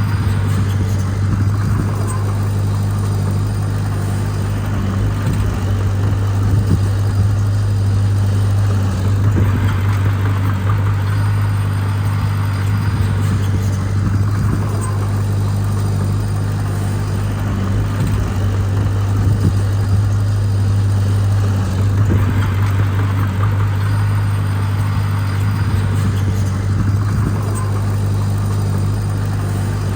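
Heavy diesel engine of earthmoving machinery running steadily with a strong low hum. Its load rises and eases every several seconds as the machine works.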